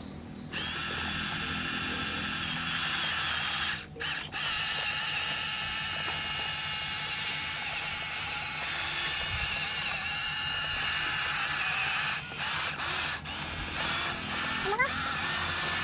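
Electric drive motor and gearbox of a Huina 1573 radio-controlled dump truck whining steadily. It stops briefly about four seconds in and again around twelve to thirteen seconds, and a short rising whine comes near the end.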